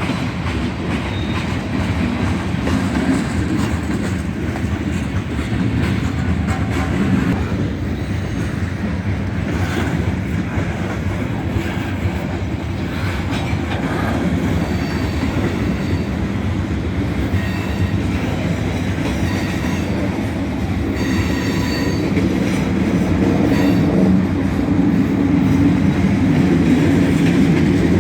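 A manifest freight train rolling past at speed, with a steady rumble of steel wheels on rail and clacking over the rail joints. Now and then there are faint high squeals from the wheels.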